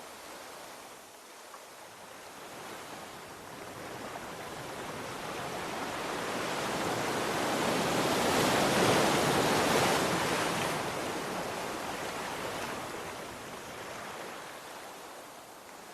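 Sea waves: one wave swells to a peak of hiss about nine seconds in, then washes back and fades.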